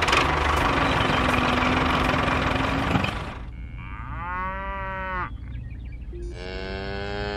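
A loud, steady noise for about three seconds, then a cow mooing twice, each moo about a second long.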